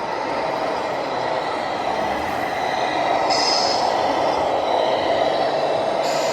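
Radio-controlled model truck running: a steady whirring of electric motor and gear drive that grows louder through the middle, with two short bursts of hiss, one about three and a half seconds in and one near the end.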